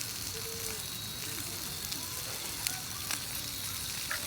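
Wood campfire burning with a steady hiss and a few sharp crackling pops.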